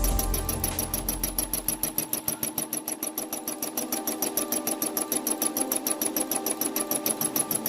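Brother SE400 embroidery machine stitching with a rapid, even rhythm of needle strokes. Background music fades out in the first two seconds.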